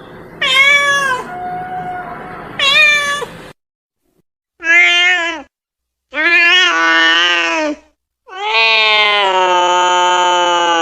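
Domestic cats meowing: two short, high meows, then a break, then three lower meows of growing length, the last a long drawn-out yowl held for several seconds.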